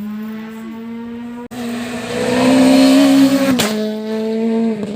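Rally car going past at speed, its engine note rising slightly under a loud rush of noise that is loudest for about a second and a half in the middle and cuts off abruptly. A steady low hum runs underneath.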